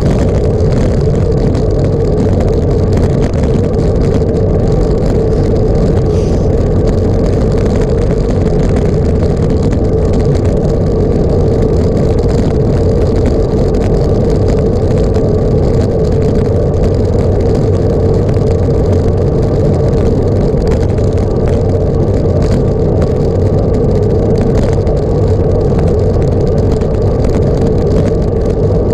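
A vehicle engine drones steadily at a constant pitch, with no change in speed.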